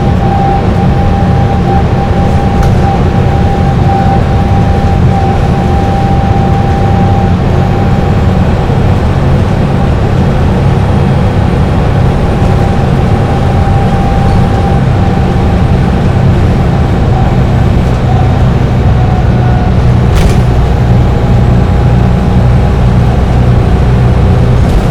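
Dennis Trident double-decker bus engine running steadily at highway cruising speed: a loud, even low drone with a faint whine on top that is clearest for the first several seconds and then fades.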